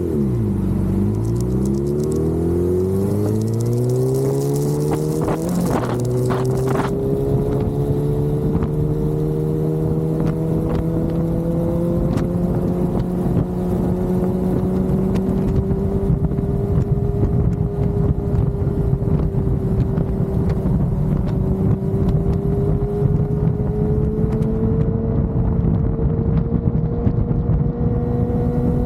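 Motorcycle engine under way: the revs drop briefly, climb steeply for about five seconds, then settle to a steady cruising pitch that creeps up slowly, with wind rushing over the microphone.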